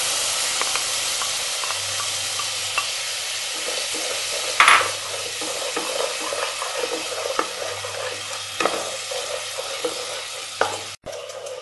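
Beaten yogurt and green chili-coriander paste sizzling in hot oil in a pot while a spatula stirs and scrapes it, with small clicks of the spatula against the pan and one louder scrape about four and a half seconds in. The sizzle slowly dies down as the yogurt mixes in, and the sound cuts out briefly near the end.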